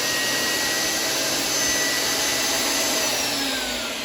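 Kobalt 10-inch worksite table saw running free with no wood being cut: a loud, steady high whine from the motor and spinning blade. About three seconds in it is switched off and the whine falls in pitch as the blade spins down.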